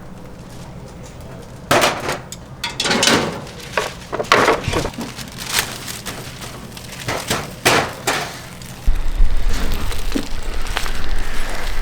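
A series of sharp clinks and knocks of glass and hard tableware being handled and set down, some ringing briefly. From about nine seconds in a low rumble joins them.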